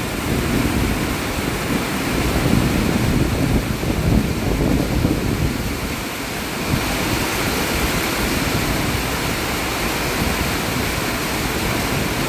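Heavy rain pouring steadily, a dense hiss, with uneven low rumbling surges through the first half.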